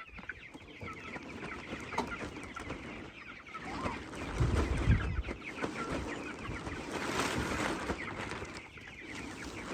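A flock of chickens in a chicken tractor clucking continuously in many short calls. A low rumble comes about four seconds in, and a rustling noise follows a few seconds later.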